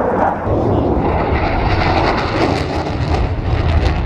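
Loud jet noise from the Blue Angels' F/A-18 Super Hornets in flight: a dense, steady rumble, with a hiss that builds from about a second in.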